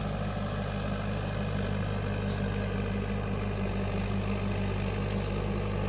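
Mahindra tractor's diesel engine running steadily at an even speed, with no change in pitch.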